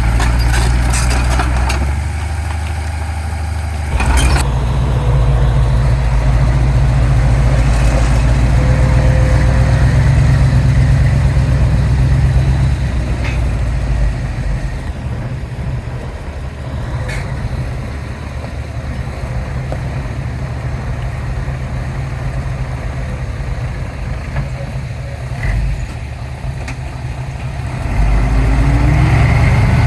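Heavy diesel engines of earthmoving machinery running with a steady low hum. The engine note gets louder about four seconds in, drops back about fourteen seconds in, and rises again near the end. A sharp knock comes about four seconds in.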